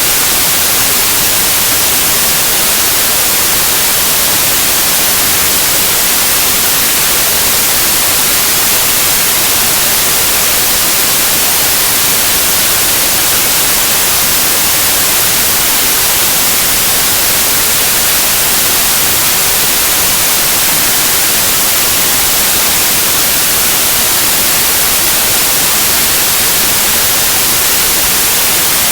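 Steady white noise: an even, unchanging hiss, brightest in the treble, played as a baby sleep aid.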